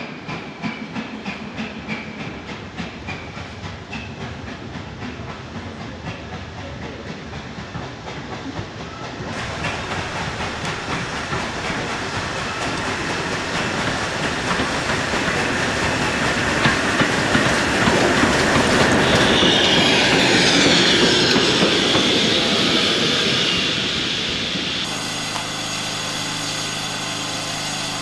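Railway wheels clicking steadily over the rail joints as a locomotive moves along the track. The sound grows louder into a harsh hiss at its peak. Near the end a steady engine drone takes over.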